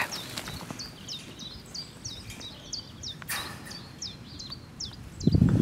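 A small bird chirping a short, sharply falling high note over and over, about three times a second, against faint outdoor background noise. A short knock sounds at the very start, and a louder low rustling rumble comes in near the end.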